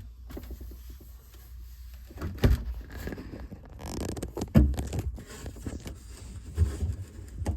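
A refrigerator's back panel being handled while its wire is unplugged: scraping and rubbing with a few sharp knocks, the loudest about four and a half seconds in.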